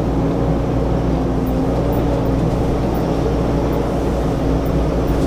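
Semi truck's diesel engine running with a steady low drone at an even pitch, as the rig is maneuvered slowly in a yard.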